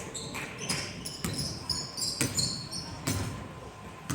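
Basketball bouncing on a gym floor during play, a handful of irregular thuds, with a few short high squeaks of sneakers on the hardwood in the middle.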